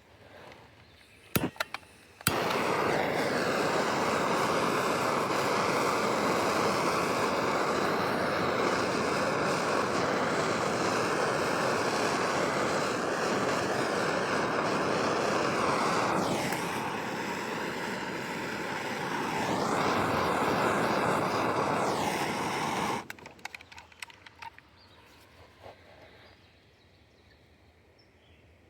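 Air rushing with a loud hiss into an opened maple sap vacuum line, starting abruptly after two sharp clicks. Its pitch drops for a few seconds and then comes back, and it cuts off suddenly when the line is closed off again.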